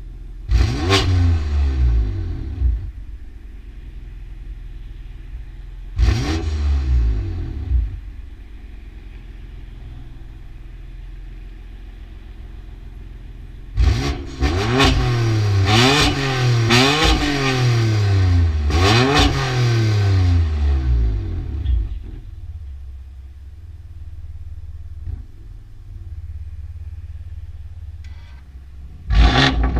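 BMW M4's twin-turbo straight-six running through an Active Autowerke valved aftermarket exhaust, idling steadily between sharp rev blips: one near the start, one about six seconds in, a quick run of four or five revs rising and falling about halfway through, and another right at the end.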